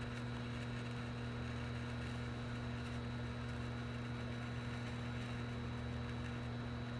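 A steady electrical hum with a faint high whine above it, unchanging throughout, with no distinct clicks or hisses.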